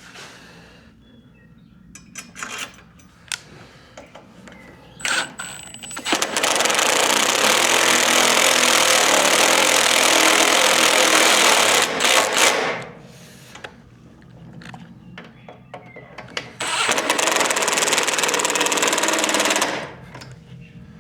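A power tool running bolts in, in two long runs: one of about six seconds, then after a pause one of about three seconds. Each run starts with a short high whine. Light clicks and handling noises come between the runs. The bolts being driven are the hitch mounting bolts, tightened down with blue Loctite.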